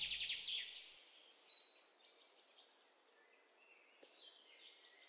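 Faint high-pitched bird chirping: a quick trill in the first second and a few thin whistled notes after. Near silence follows, and the chirping starts again near the end.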